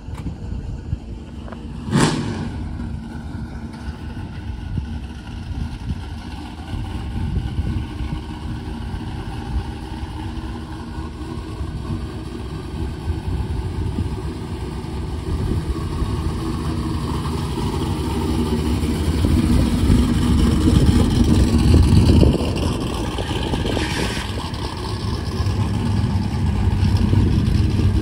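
Classic cars' engines running as they pull out and drive off along the street, a low rumble that builds and peaks about twenty seconds in, then drops off. A single sharp click about two seconds in.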